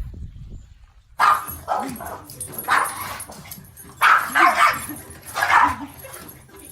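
A dog barking and yipping in a run of short, loud bursts, starting suddenly about a second in.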